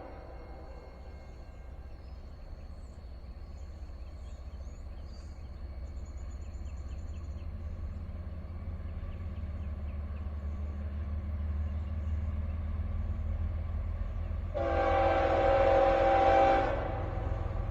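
Approaching Norfolk Southern diesel freight train: a low rumble that slowly grows louder, then the locomotive's air horn sounds one chord held about two seconds, near the end.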